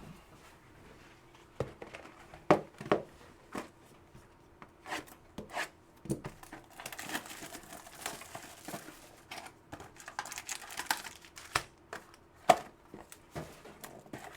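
Trading card pack wrappers being torn open and crinkled, with scattered sharp rustles and clicks as the packs and cards are handled.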